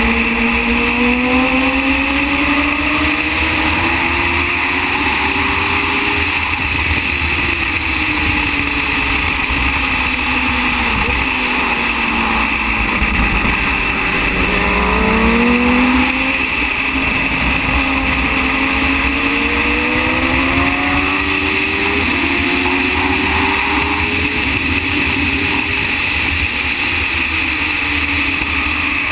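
Racing motorcycle engine at speed on track. Its pitch climbs for several seconds at a time and drops back again, over and over, as the bike accelerates and slows through the corners. A steady rushing noise runs underneath.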